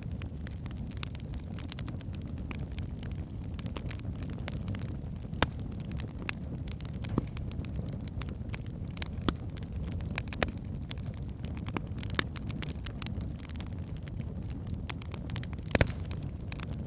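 Wood fire burning in a fireplace: a steady low rumble of flames with frequent sharp crackles and pops from the logs, a few standing out louder.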